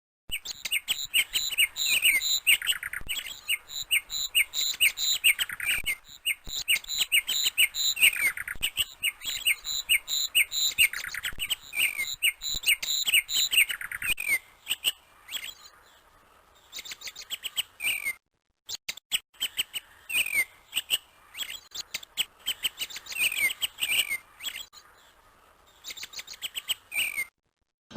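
Small birds chirping: rapid runs of short, high, repeated chirps, dense at first and sparser in the second half.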